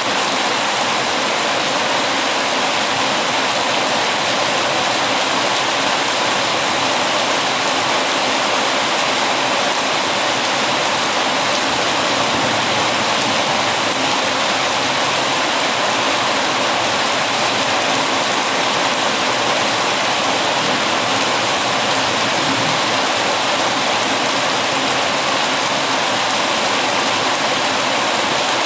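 Heavy rain falling steadily, an even unbroken hiss of water.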